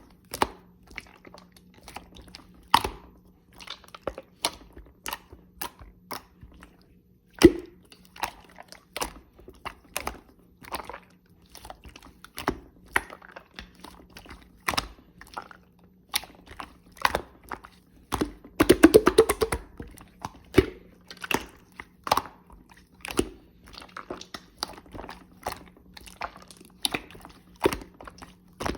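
Crunchy chewing and biting: irregular sharp cracks and clicks, one or two a second, with a fast run of clicks about two-thirds of the way through. A faint steady hum lies underneath.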